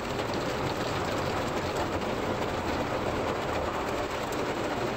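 Automatic car wash brushes spinning and scrubbing over the car, a steady, dense mechanical wash noise heard from inside the car.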